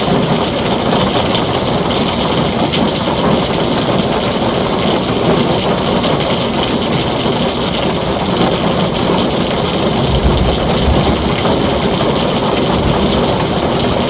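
Heavy rain drumming steadily on a tin roof, a dense even hiss. A short, low rumble of thunder comes about ten seconds in.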